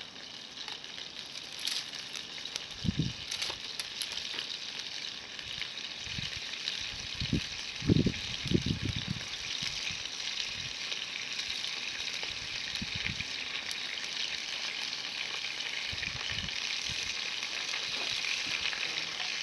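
Meat sizzling on a grill over a wood campfire: a steady frying hiss that grows a little toward the end, with a few dull knocks, the loudest about eight seconds in.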